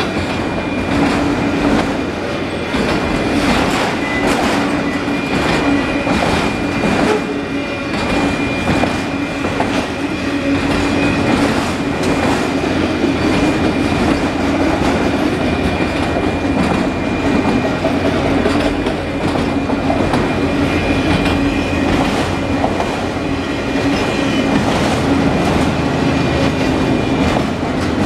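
Canadian Pacific freight train's cars rolling past, wheels clacking over rail joints in a steady run of clicks over a continuous rumble, with a thin steady high tone above it.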